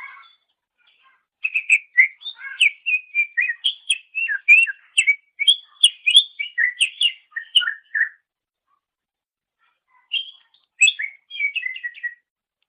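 Green leafbird (cucak ijo) singing: a long run of rapid, varied whistled and chirping notes, a pause of about two seconds, then a shorter phrase near the end.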